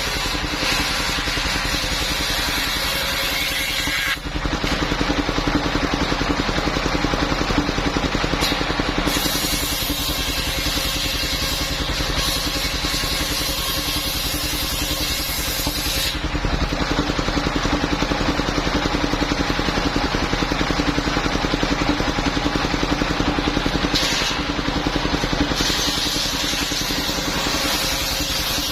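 Engine of a mobile circular sawmill running steadily. Its sound changes abruptly several times, about 4, 9, 16 and 24 seconds in.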